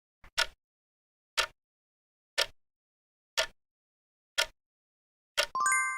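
Countdown timer sound effect ticking once a second, then a bell chime that rings out near the end, signalling that the answer time is up.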